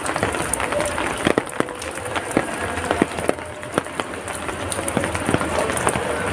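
Rain falling: a steady hiss with many sharp, irregular drops tapping and splashing on nearby surfaces.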